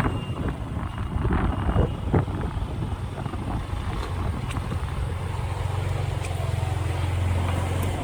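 Motorcycle engine running at low speed while wind buffets the microphone, the engine's low hum growing steadier and clearer in the second half.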